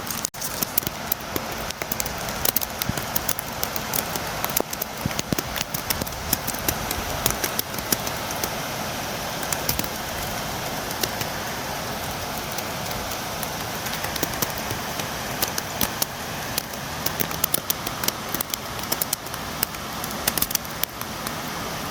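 Steady rain against a window: an even hiss with many irregular sharp taps of single drops striking.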